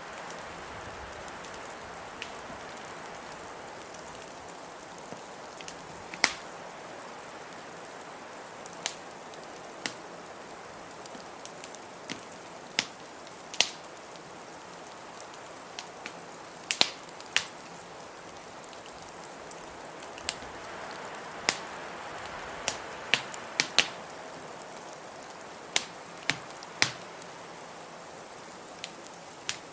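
A wood fire crackling with sharp, irregular pops over the steady rush of blizzard wind, which swells a little midway.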